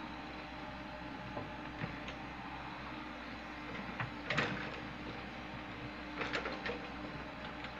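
Komatsu PC70 tracked excavator's diesel engine running steadily, with scattered knocks and clanks from the machine at work. The loudest clanks come a little past halfway, and another cluster follows about two seconds later.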